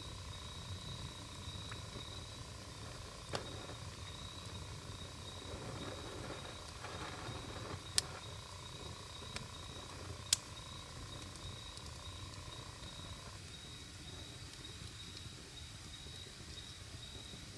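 Wood fire burning with a low steady rumble, broken by a few sharp crackling pops, the loudest about eight and ten seconds in. A faint steady high tone runs underneath.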